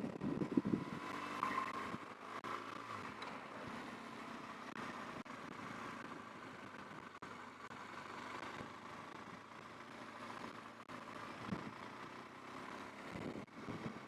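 BMW R1200GS boxer-twin motorcycle running under way, its engine and the rush of riding heard as a steady, fairly quiet noise after a louder burst at the very start.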